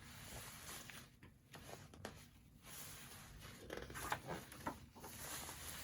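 Soft rustling and light scraping of a picture book's paper pages being handled and turned, with a few faint clicks.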